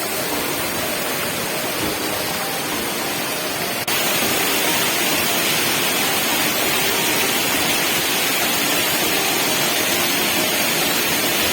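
Waterfall in monsoon flow, a steady rush of falling water. It jumps slightly louder and brighter about four seconds in.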